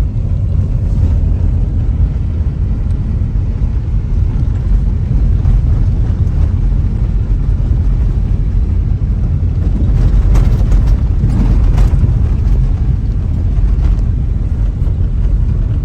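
Steady low rumble of road and engine noise from a moving car, heard from inside the vehicle, swelling a little about ten seconds in with a few brief knocks.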